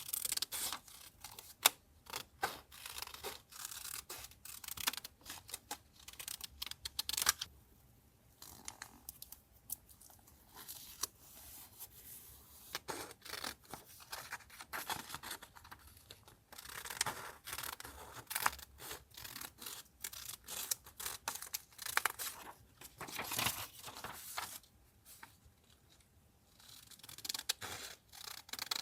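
Paper being torn, cut with scissors and rustled for a journal collage, in quick irregular strokes with short pauses.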